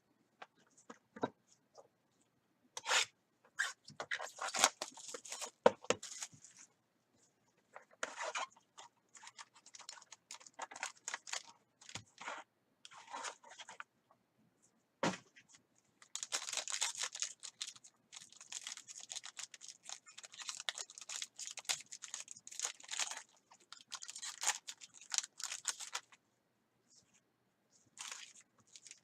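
Plastic wrapping on a box of trading cards being torn open and crinkled, in several irregular bouts, with a couple of sharp knocks as the box and cards are handled.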